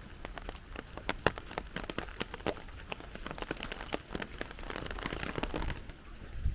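Heavy rain, with many separate drops striking close by over a steady hiss. The close drops thin out shortly before the end.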